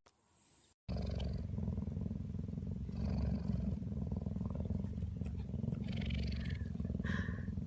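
A cat purring: a low, continuous, rough rumble that starts about a second in and runs on steadily.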